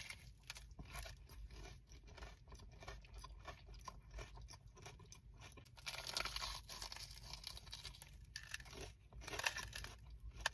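A person chewing a crispy, Cheeto-dusted Korean corn dog close to the microphone, with small crackly crunches throughout and louder crunching about six and nine seconds in.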